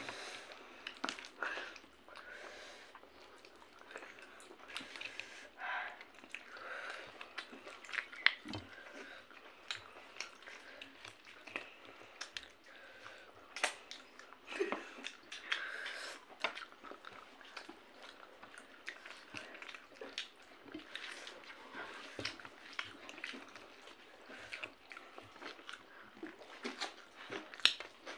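Close-up eating sounds: chewing, lip smacks and wet squelches as chicken curry and rice are eaten by hand, with many small irregular clicks.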